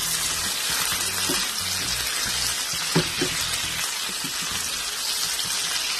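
Bitter gourd rings and onion slices sizzling in hot oil over a high flame, stirred with a wooden spatula that knocks against the pan twice around the middle.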